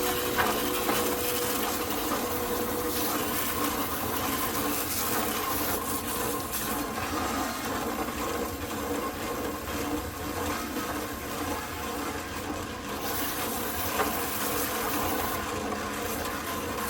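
Water rushing and splashing as a concrete mixer is rinsed out after a batch, over a steady hum.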